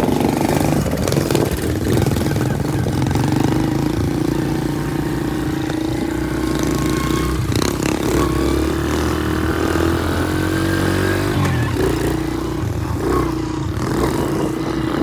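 Small pit bike engines running and revving, the engine note climbing steadily in pitch about eight seconds in before easing off.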